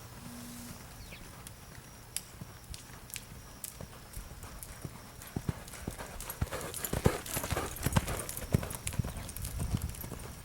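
Horse's hooves clip-clopping in irregular hoofbeats, busier and louder in the second half.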